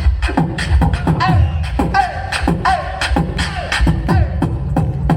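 A person beatboxing a fast, even South Indian-style beat with the mouth: sharp snare-like clicks and deep kick thumps, threaded with short pitched vocal sounds that slide downward.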